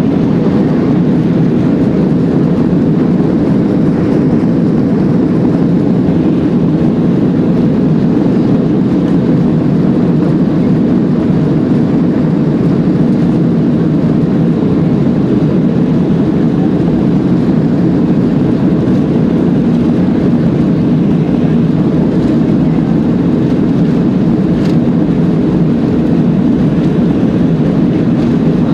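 Steady, loud roar of an airliner cabin in flight: jet engine and airflow noise, unchanging throughout.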